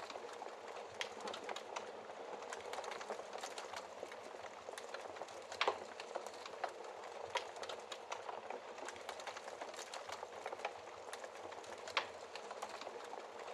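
Wood fire burning in a fireplace, crackling with frequent small pops over a soft hiss. Two louder pops stand out, about six seconds in and near the end.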